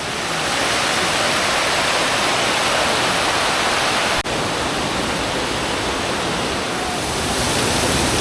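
Waterfall roaring close by with its heavy spray: a loud, steady rush of noise that drops out for an instant about four seconds in.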